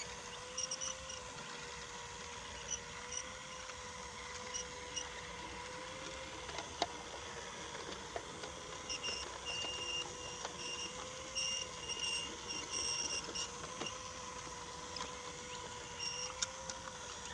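Battery-powered Brio toy locomotive running on wooden track: its small electric motor hums at a steady pitch that wavers slightly every few seconds, with scattered clicks from the wheels over the track and short high squeaks.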